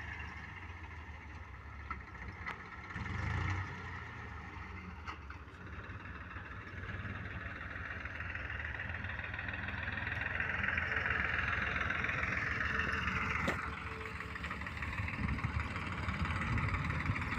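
Tractor engine running steadily with a low throb, growing louder through the middle and easing off again, with one sharp click about three-quarters of the way through.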